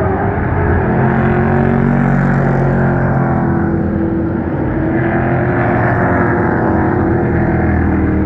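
Pro Truck racing trucks running laps on a short oval, several engines droning together, their pitch swelling and falling as they go by.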